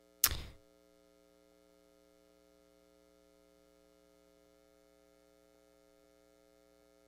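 Near silence with a faint steady electrical hum, after a brief clipped sound right at the start.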